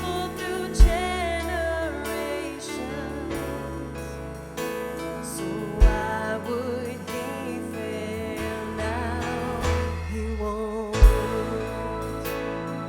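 Live worship band playing a slow Christian worship song, keys and sustained pads under a wavering sung melody line. Three deep, loud hits land about five seconds apart, near the start, midway and near the end.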